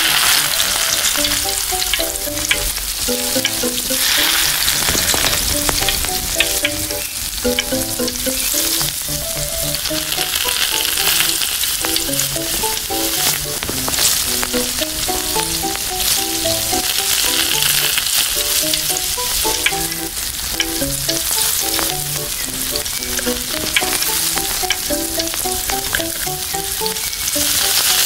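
Food sizzling in hot oil in a miniature cooking pan, being stirred, starting abruptly and crackling steadily throughout. Light background music plays underneath.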